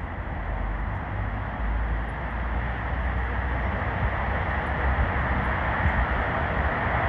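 Strong wind gusting through trees, a rushing noise that builds steadily, with wind buffeting the microphone as a heavy low rumble.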